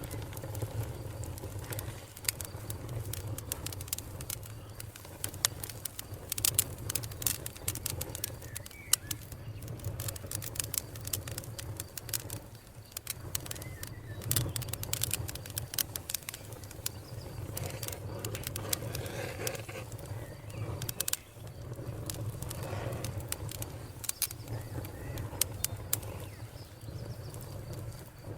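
Wood fire burning, crackling and popping with many irregular sharp snaps over a low, steady rumble of flame.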